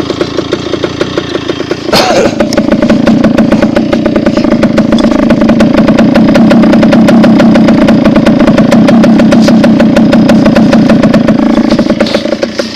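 Two-stroke dirt bike engine running while riding. About two seconds in there is a sharp knock, then the engine gets louder and holds steady, easing off near the end.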